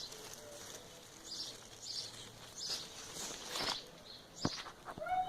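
Small birds and insects chirping, short high calls repeating irregularly about once or twice a second. A couple of sharp clicks are heard near the end.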